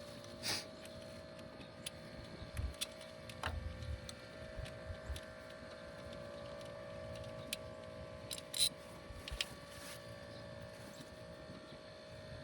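Scattered metallic clicks and clinks of hand tools working on fasteners in a car's engine bay, with a few soft knocks, over a steady background hum.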